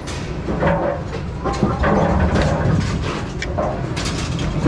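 Bowling pinsetter machinery: a steady low mechanical rumble with irregular metallic clanks and knocks.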